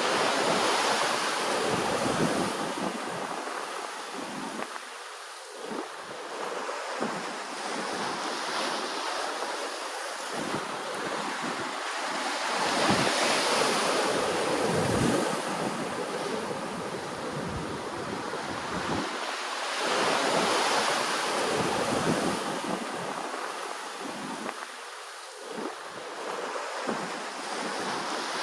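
Ocean waves washing in and receding, the surf swelling to a louder rush every several seconds, then falling back.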